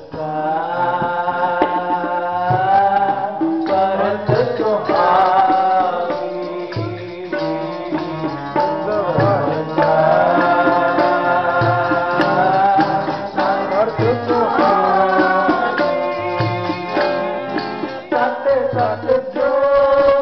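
Sikh kirtan: gurbani sung over harmonium with tabla playing a steady rhythm.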